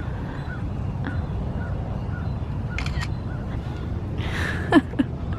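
Outdoor ambience by the bay: a steady low rumble with faint small chirps repeating. A few sharp clicks come about three seconds in, and near the end a short hiss-like burst is followed by two quick falling squeaks.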